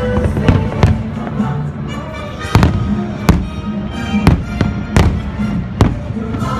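A string of fireworks shells bursting, sharp loud bangs about once a second, over steady patriotic show music.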